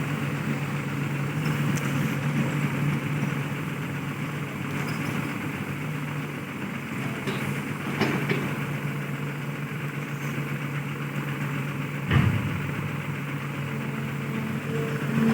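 Heavy diesel engine idling steadily, with a short knock about eight seconds in and another about twelve seconds in.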